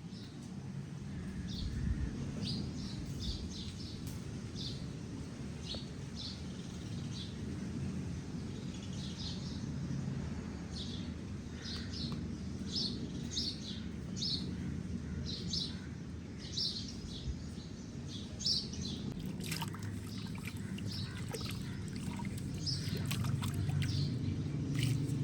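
Birds chirping outdoors: short, high chirps repeated about once or twice a second, over a steady low background rumble.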